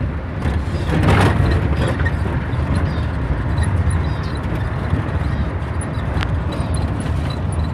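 Steady low rumble of a running motor vehicle, with no sudden events.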